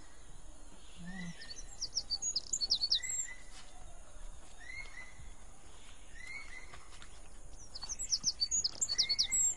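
Birds chirping: two bursts of rapid, high chirps, one early and one near the end, with a shorter call repeating about once a second throughout.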